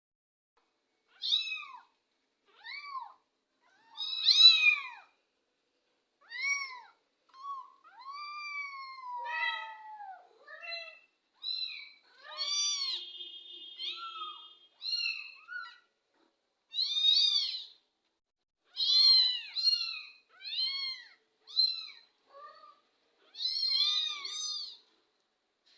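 Young kittens mewing: a long run of short, high-pitched rising-and-falling mews, one after another with brief pauses. One longer call slides down in pitch about nine seconds in.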